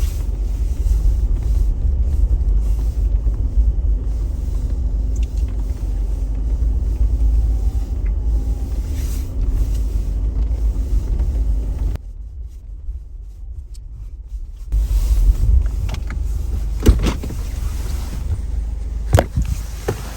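Jeep's engine running with a heavy low rumble as it drives over snow and ice, with a steady low tone through most of it. It goes quieter for a few seconds past the middle, and a few sharp knocks come near the end.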